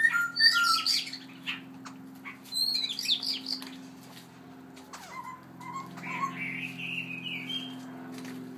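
Songbird calling: loud bursts of whistled, gliding notes and chirps with sharp clicks at the start and again about three seconds in, then softer warbled notes.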